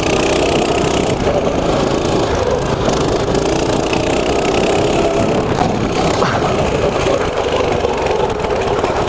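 Small mini bike engine running steadily under throttle while being ridden off-road, its pitch wavering slightly up and down.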